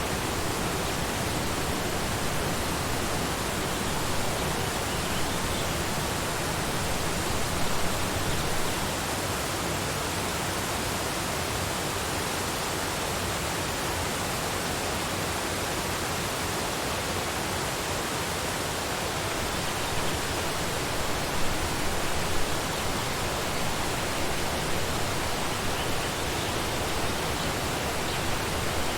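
Waterfall: a steady rush of falling water, with a few slightly louder splashes now and then.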